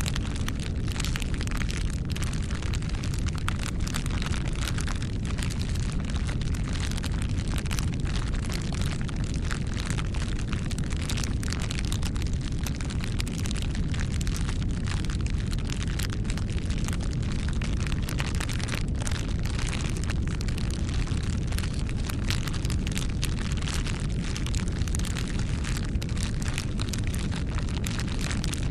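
Campfire burning: a steady low rumble of flames with frequent irregular crackles and pops of burning wood.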